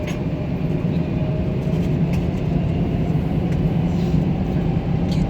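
Steady low drone inside a jet airliner's cabin, engines and air system running as the plane prepares for takeoff, with a few faint ticks.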